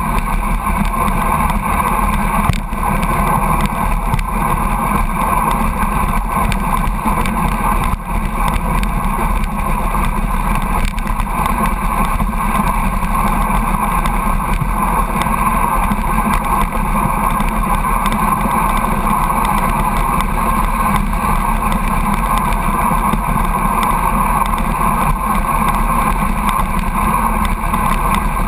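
Steady high-speed rush of wind and road noise from a bicycle drafting close behind a truck at about 82 km/h, with the truck's running noise in it.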